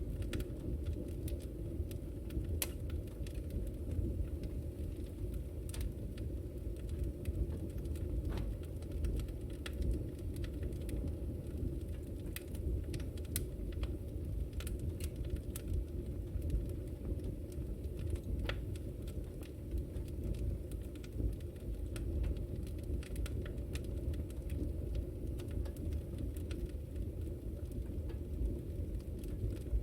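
Wood fire burning in a fireplace, a steady low rumble of flames with frequent small crackles and pops.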